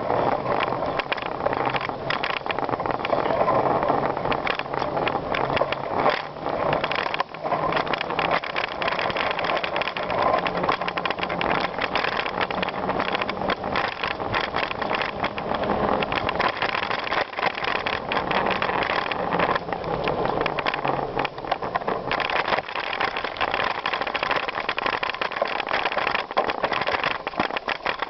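Bicycle being ridden over a rough gravel trail: a steady rush of tyre and wind noise with constant fine rattling and clicking.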